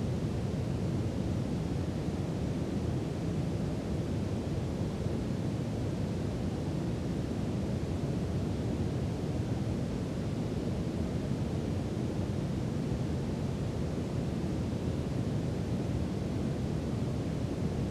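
Steady brown noise: an even, deep hiss weighted toward the low end, with no changes in level.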